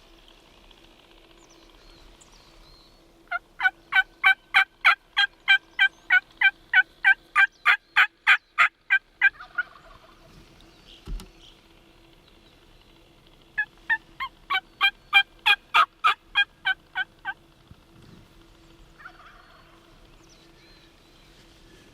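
Turkey yelping: a long, even series of yelps at about four a second for some six seconds, then a second shorter series a few seconds later. A single low knock falls between the two series.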